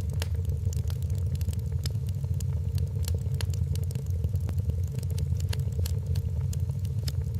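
Wood fire crackling in a fireplace: frequent sharp pops and snaps, irregularly spaced, over a steady low rumble and a faint steady hum.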